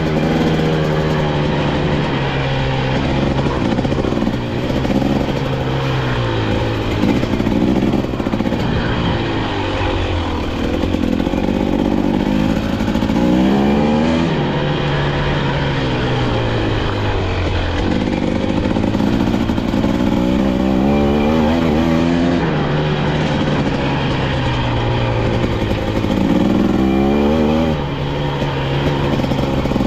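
KTM 250XC-W two-stroke dirt bike engine running under varying throttle, its pitch climbing and falling again and again as it is ridden, with sharp revs about halfway through and near the end.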